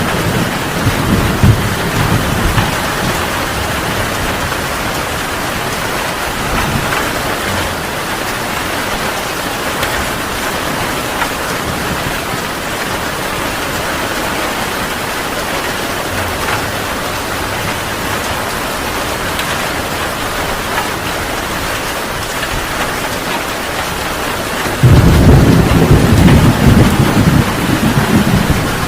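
Heavy rain falling steadily, with a low thunder rumble dying away in the first few seconds. Near the end a loud roll of thunder breaks in suddenly and keeps rumbling.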